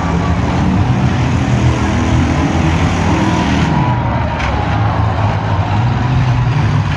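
Many demolition derby cars' engines running loudly together as the cars ram one another, with a knock about four and a half seconds in.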